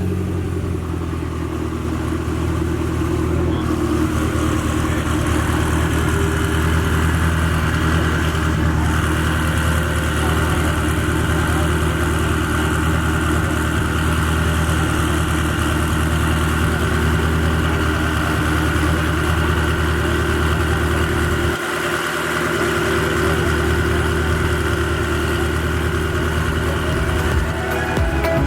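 A car engine idling steadily, with a brief drop in its low tone a little over two-thirds of the way through.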